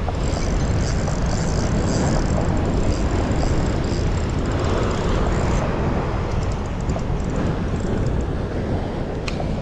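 Wind buffeting the microphone over the steady wash of surf on a beach, a loud, continuous rumble.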